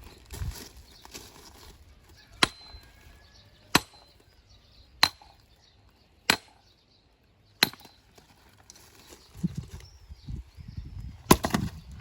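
Firewood being split by repeated blows on metal: a sharp strike with a brief metallic ring about every 1.3 seconds, five in a row. After a pause comes a low rumble, then a sixth, louder strike near the end.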